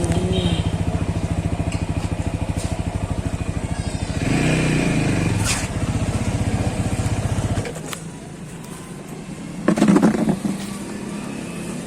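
TVS Apache RTR 200 4V's single-cylinder engine running with an even, fast thud, briefly louder about four seconds in, then cutting off abruptly as it is switched off. A brief loud noise follows near the end.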